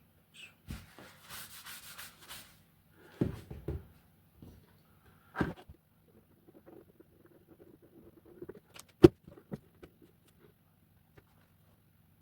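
Handling of 3D-printed plastic mask pieces while super glue is applied: scattered light rubbing and small knocks, with one sharp click about nine seconds in.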